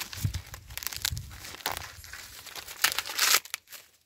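Dry corn husks crackling and tearing as they are peeled back from a freshly picked ear of corn, in irregular rustling strokes, with a louder tearing run near the end.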